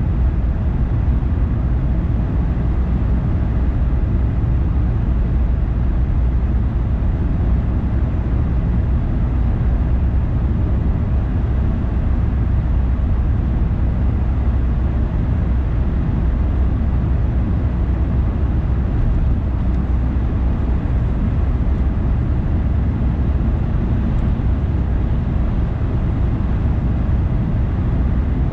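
Car driving: a steady, even rumble of road and engine noise, heaviest in the low end, with no sudden events.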